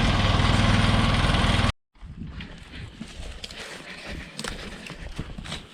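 JCB backhoe's diesel engine running steadily, cut off abruptly under two seconds in. It is followed by a much quieter stretch of scattered light clicks and knocks.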